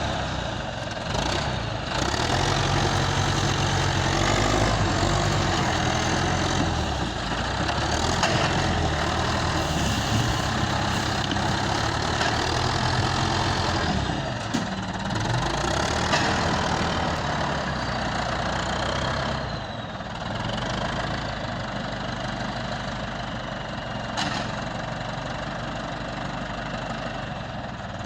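Caterpillar 518 skidder's diesel engine running under load, its pitch shifting up and down, then settling to a lower, quieter run about two-thirds of the way through. A few sharp knocks stand out over it.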